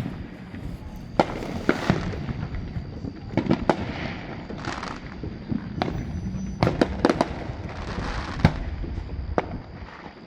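Fireworks show: a string of sharp bangs at irregular intervals, some followed by a crackling hiss as shells burst.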